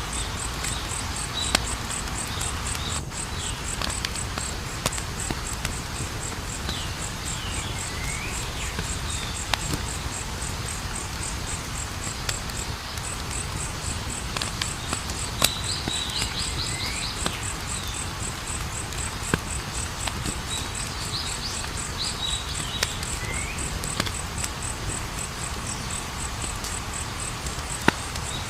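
Wood fire crackling with scattered sharp pops over a steady hiss, while crickets chirp in a fast, even, high-pitched pulse throughout. Short falling calls come now and then.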